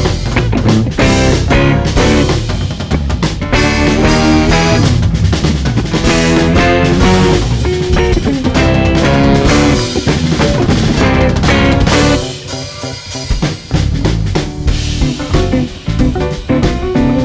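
A band playing live, guitar over a drum kit with snare and bass drum. About twelve seconds in, the full band drops back to a quieter, sparser passage.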